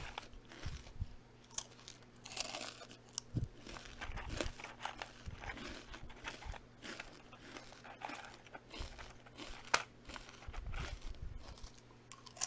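Close-up crunching and chewing of crisp food, with irregular bites and one especially sharp crack late on.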